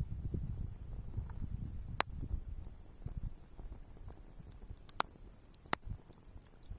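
Wood campfire crackling, with a low rumble of flames and three sharp pops: one about two seconds in and two close together near the end.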